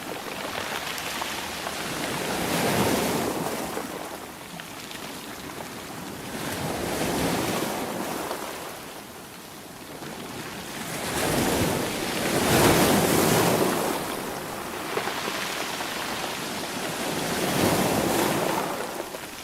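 Sea waves surging in and washing back, one after another about every five seconds, the loudest about two-thirds of the way through.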